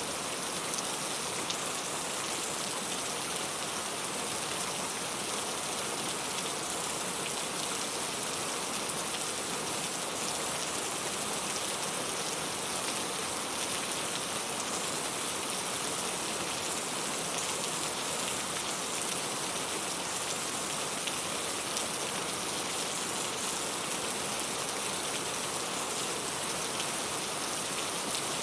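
Steady rain falling on a surface, a constant even hiss of many drops with fine pattering detail.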